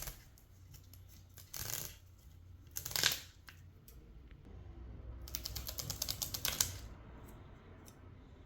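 Handling noises from objects being moved by hand: two short rustling knocks, then a quick run of light clicks lasting about a second and a half.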